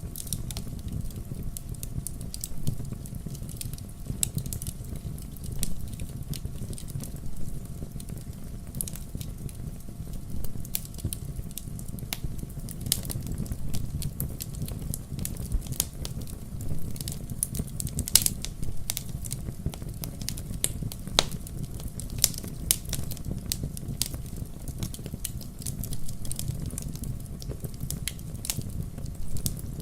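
Firewood burning and crackling: frequent irregular sharp pops and snaps over a steady low rumble.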